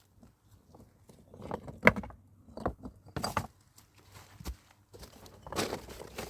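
A series of irregular knocks, clicks and scuffs, with the sharpest knock about two seconds in and a busier stretch near the end.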